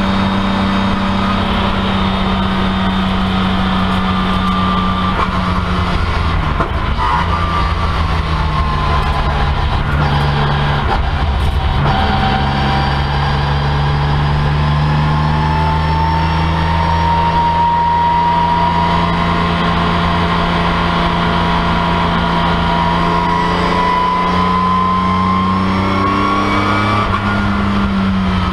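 BMW M3 CSL racecar's straight-six engine heard inside the stripped cabin while lapping, its revs shifting slowly up and down, with short dips in engine note about six and eleven seconds in as the throttle is lifted or a gear is changed.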